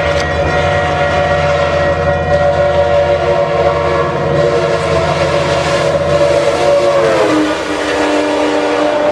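A loud passing vehicle: a steady whine of several tones over a low rumble, the tones sliding down in pitch about seven seconds in as it goes past.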